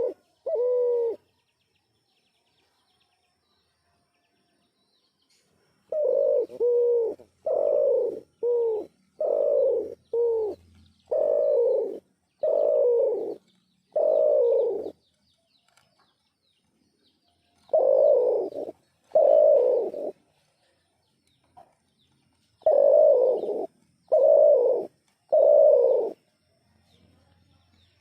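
A dove cooing: a series of low coos, each under a second long and spaced about a second apart. The coos come in bouts, with pauses of a few seconds between them.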